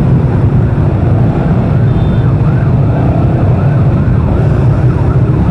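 Loud, steady rumble of motorcycle engines and traffic in slow, bumper-to-bumper flow, picked up on a rider's camera. A faint, fast-yelping siren runs through the middle.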